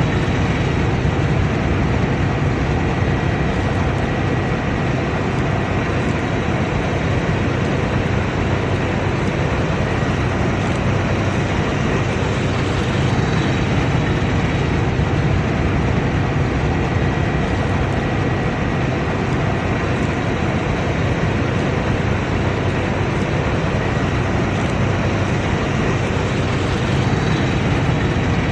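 Combine harvester running steadily under load, a constant deep machine noise from the engine and threshing machinery with a faint steady whine on top.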